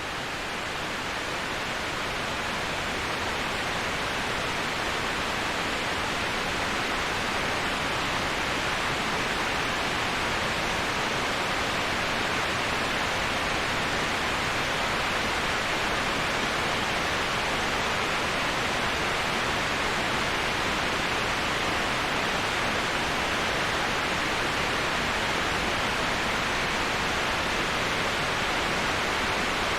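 Waterfall rushing as an even, unbroken hiss, swelling slightly in the first few seconds and then holding steady.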